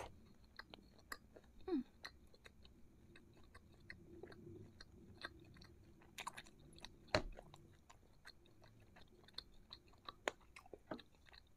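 Close-miked chewing of fried meatballs (bakso goreng) coated in Samyang hot sauce: soft, irregular wet mouth clicks and smacks, with one sharper click about seven seconds in.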